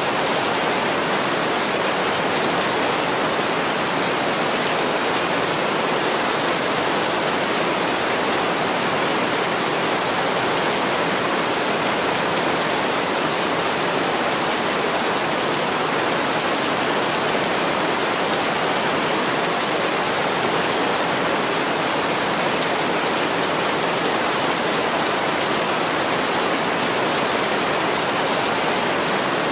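Heavy rain falling on a window: a steady, even hiss with no let-up.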